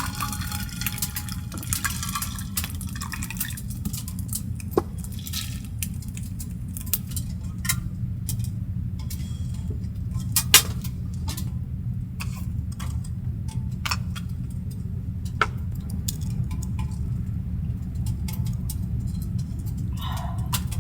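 Scattered light clinks and taps of dishes and cooking utensils, one sharper clink about halfway through, over a steady low hum.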